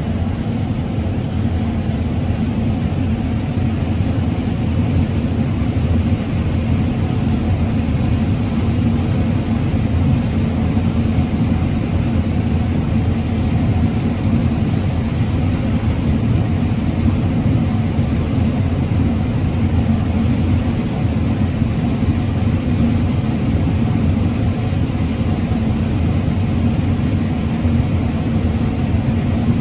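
Combine harvester running steadily while harvesting corn: an even, unbroken drone of engine and threshing machinery.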